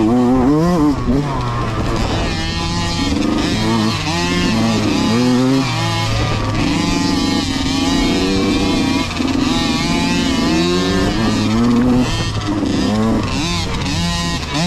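Several small dirt bike engines revving, the pitch climbing and dropping again and again as the bikes accelerate and shift, over a steadier engine tone underneath.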